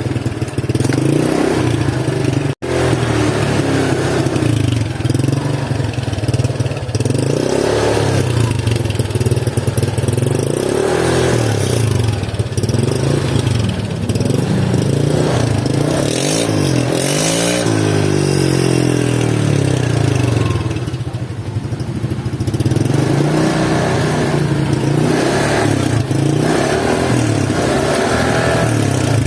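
Honda Vario scooter's single-cylinder engine through a gutted racing exhaust, revved again and again in throttle blips every two to three seconds, its pitch rising and falling. It settles back toward idle briefly about two-thirds of the way through.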